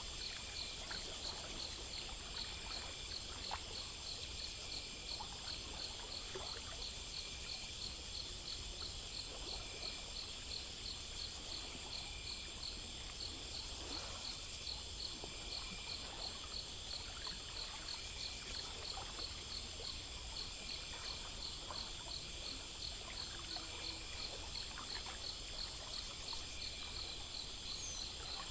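Chorus of crickets and other insects chirping in steady, rapid rhythms at several high pitches, over a faint trickle of running water.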